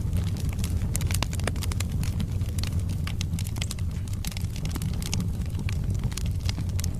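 Wood fire burning in a fireplace: a steady low rumble of the flames with many sharp crackles and pops from the burning logs.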